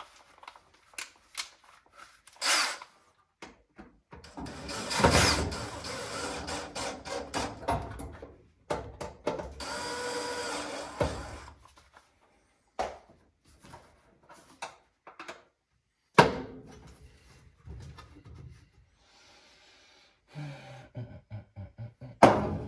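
Cordless power drill-driver running in two bursts, the first about four seconds long and the second about two, among clicks and clunks of dryer parts being handled. A sharp knock comes near the end.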